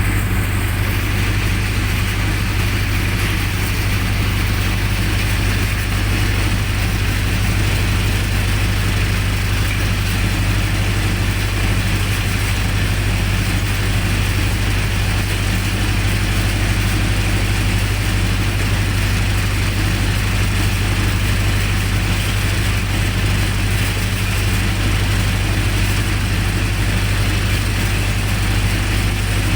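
Generator set's engine running steadily at a constant speed, an even low hum with no change in pitch.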